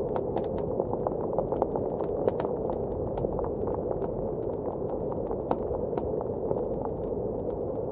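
Wood fire crackling with irregular sharp pops, several a second, over a steady low rush of blizzard wind.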